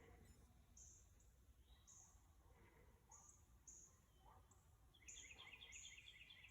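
Very faint nature ambience: thin high chirps repeating about once a second, with a fast bird trill about five seconds in.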